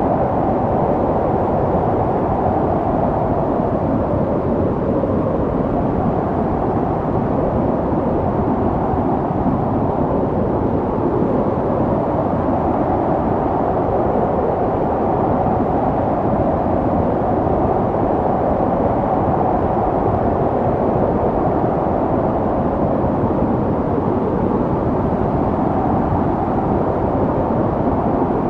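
Snowstorm wind blowing steadily: a dense, low rushing noise that swells slightly and eases off again, with no gaps.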